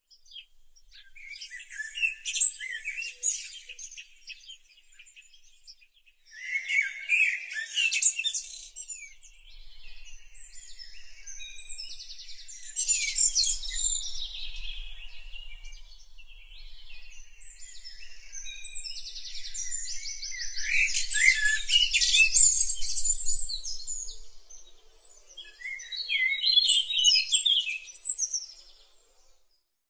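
Songbirds chirping and singing in several overlapping bouts of rapid, high-pitched calls and trills, with brief lulls between them.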